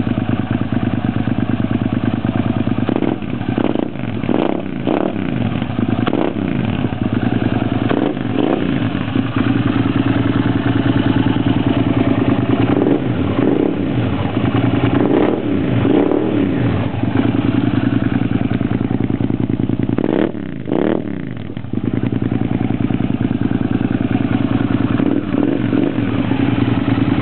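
Suzuki SV650S 645 cc V-twin engine running through a Viper aftermarket exhaust. It idles steadily and is blipped a dozen or so times, each rev rising quickly and falling back to idle, with a sharp double blip about twenty seconds in.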